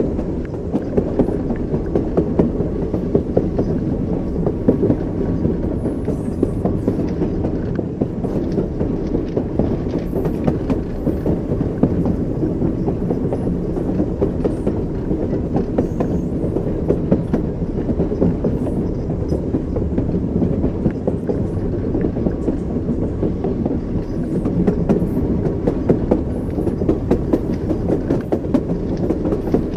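Train running along the track: a steady low rumble with the clickety-clack of its wheels knocking over the rail joints.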